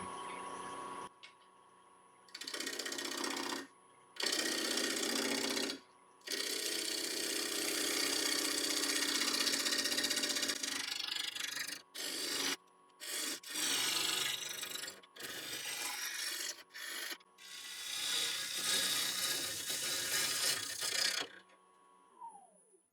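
Bowl gouge cutting a spinning sycamore bowl blank on a wood lathe at 900 RPM, roughing it round in a series of passes of one to four seconds with short breaks between them, over the lathe's faint steady whine. Near the end the whine falls in pitch as the lathe slows.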